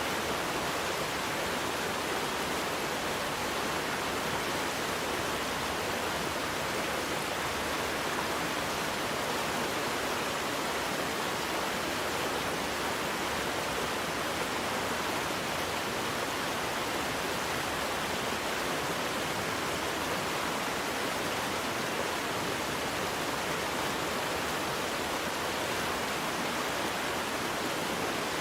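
Waterfall: a steady rush of falling water, even and unchanging, with most of its energy in the middle and upper range.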